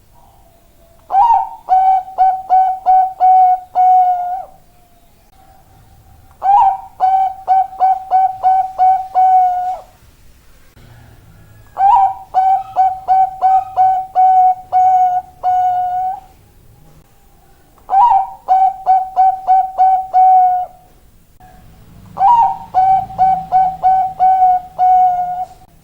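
Zebra dove (perkutut, Bangkok type) singing its cooing song: five phrases, each a run of about seven quick, clipped coos lasting three to four seconds, repeated every five or six seconds.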